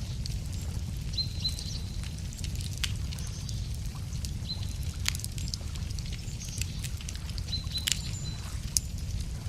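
Wood bonfire crackling, with a few sharp pops over a steady low rumble. A small bird gives short high chirps several times.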